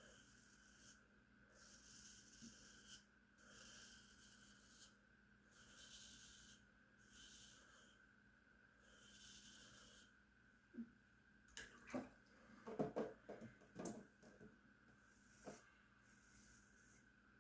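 Gillette Super Speed safety razor scraping across a lathered scalp in even strokes, roughly one a second. Near the end the strokes give way to a burst of clicks and knocks.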